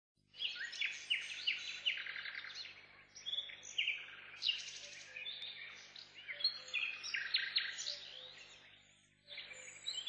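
Songbirds singing: several birds' quick chirps and trills overlapping in bursts, with short lulls about three seconds in and again near the end.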